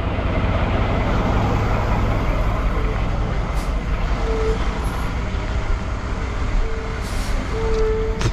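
Heavy diesel machinery running steadily with a deep rumble, with a faint tone that comes and goes several times.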